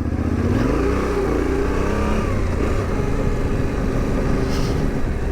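Adventure motorcycle engine running under load on a trail, its revs climbing and falling as the rider works the throttle.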